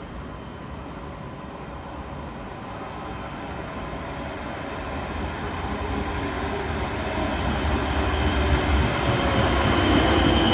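Electric multiple-unit passenger train pulling into an underground station platform, its running noise echoing in the hall and growing steadily louder as it approaches, with a high tone coming in near the end.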